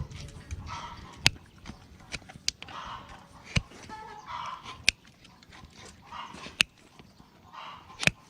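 A dog barking and whining off and on, with sharp clicks or snaps about every second or so.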